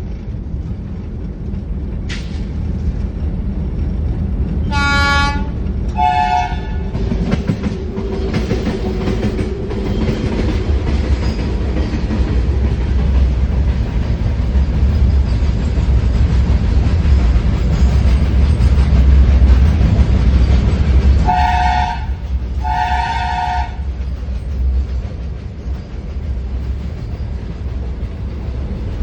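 Indian Railways locomotive horns sounded over the steady rumble of a running train. A short horn blast comes about five seconds in and a two-note blast follows at once. Two more two-note blasts sound about three quarters of the way through. The title gives the horns as those of a WAG-9 electric and a WDG-3A diesel locomotive.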